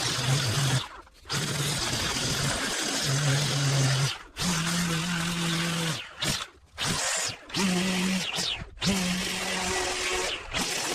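Pressure washer running and spraying at a hard surface: a steady hiss of the jet over the hum of the machine, which cuts out briefly several times.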